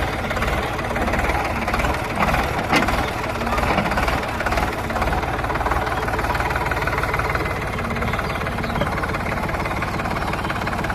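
Tractor's diesel engine running steadily, with a few sharper knocks about two to three seconds in.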